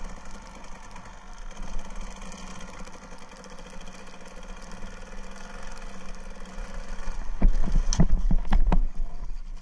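Kawasaki KDX220R's two-stroke single-cylinder engine running steadily at low revs, muffled by the camera's waterproof case. About seven seconds in, a cluster of loud knocks and thumps.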